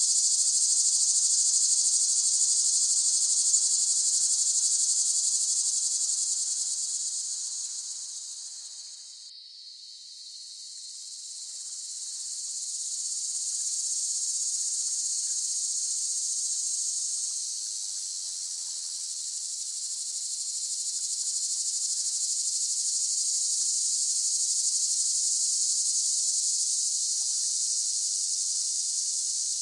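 Cicadas buzzing in a steady, high-pitched chorus. It fades down from about six seconds in, breaks off for an instant, then swells back up.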